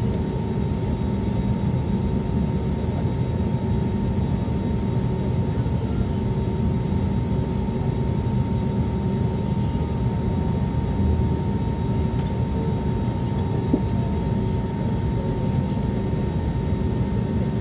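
Airbus A320neo engines at takeoff power, heard inside the passenger cabin: a deep steady rumble with a steady whine above it.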